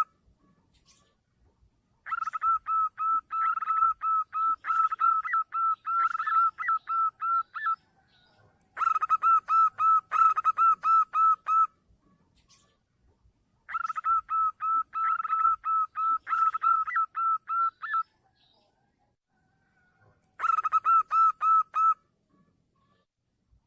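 Zebra dove (perkutut) calling in bouts of rapid, evenly spaced cooing notes, about four a second, each bout lasting a few seconds with short silences between. It is a lure call used to draw zebra doves. There are four bouts, and a few notes near the end of some bouts lift slightly higher.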